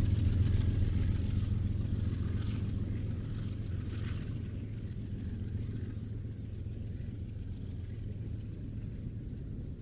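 Low rumble of a train, fading steadily as it moves away, with faint hissy rail noise over it in the first few seconds.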